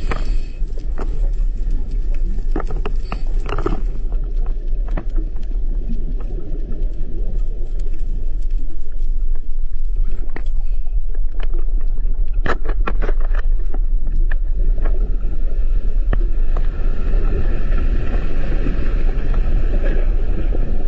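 Loud, steady low rumble with scattered knocks and clatter on top, a cluster of them about twelve seconds in.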